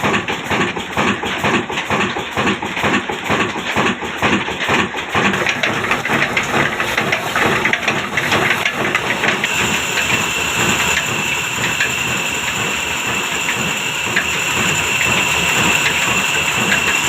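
Old diesel engine running with a regular knocking beat. About ten seconds in, a steady high whine joins it.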